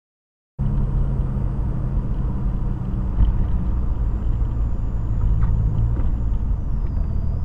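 Steady low rumble of a car's engine and tyres on the road, heard from inside the moving vehicle through a dashcam microphone. It starts suddenly under a second in.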